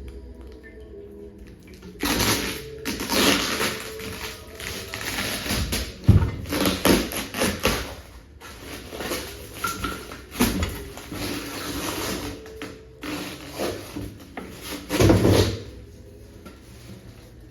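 Packaging being handled during unboxing: irregular rustling and crinkling with a sharp knock about six seconds in, starting about two seconds in and dying away near the end.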